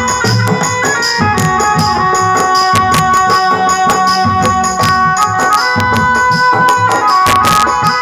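Instrumental interlude of a Rajasthani devotional bhajan: a held, stepping melody over a hand-drum beat with jingly, tambourine-like percussion and sharp clicks.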